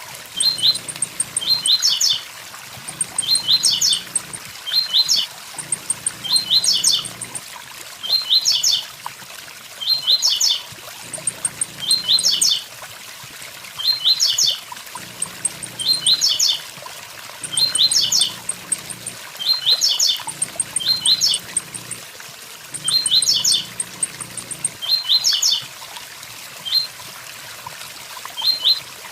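Blue-black grassquit (tiziu) repeating its short 'tui tui zel zel' song phrase of quick falling notes about once a second, over the steady rush of a waterfall.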